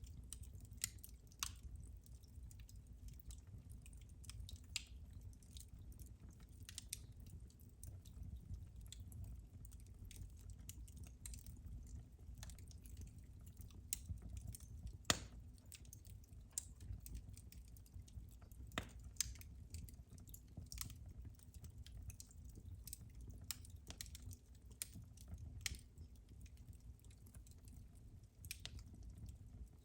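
Wood fire in a fireplace crackling faintly, with irregular sharp pops, the loudest about fifteen seconds in, over a low steady rumble.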